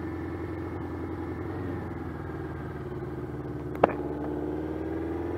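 Honda CB700SC Nighthawk's inline-four engine running steadily at low revs, its pitch rising a little near the end. A single sharp click comes a little before that.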